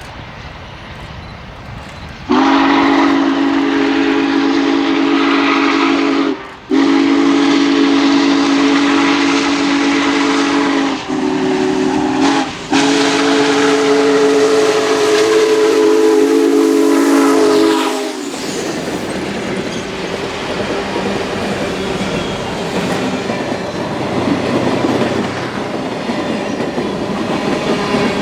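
Union Pacific Big Boy 4014 steam locomotive's chime whistle blowing four blasts, long, long, short, long: the grade-crossing signal. After that comes the steady rumble and clatter of the train rolling past on the rails.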